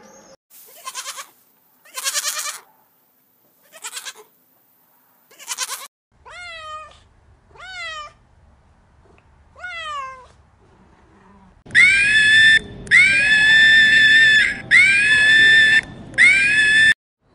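A domestic cat meowing about four times, each meow falling sharply in pitch. Before them come harsh, raspy animal cries, and near the end four loud, high-pitched, steady calls from another animal.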